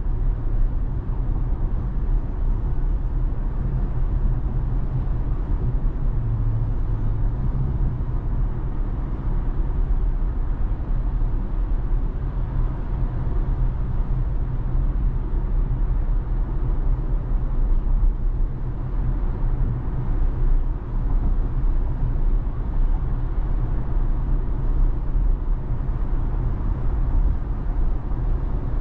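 Steady low rumble of road and tyre noise inside a Tesla's cabin while it drives.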